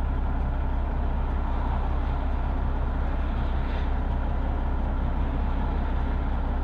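Detroit Diesel Series 60 inline-six in a 1999 semi truck idling: a steady, unchanging low diesel drone.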